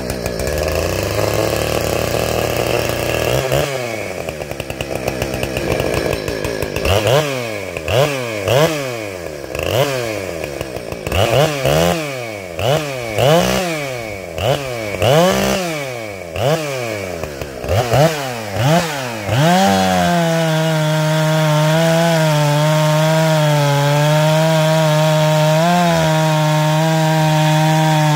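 Ported Husqvarna 455 Rancher two-stroke chainsaw with a modified muffler running just after starting, then blipped up and down about once a second, over a dozen times. About two-thirds of the way in it goes to steady high revs and holds there with slight wavers, its high-speed mixture set very rich for tuning.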